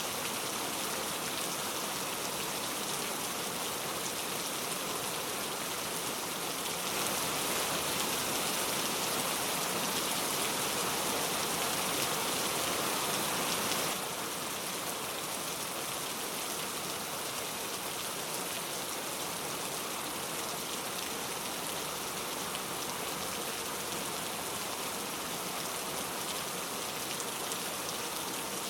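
Steady heavy rain falling, without thunder. It grows a little louder about a quarter of the way in and drops back abruptly near the middle.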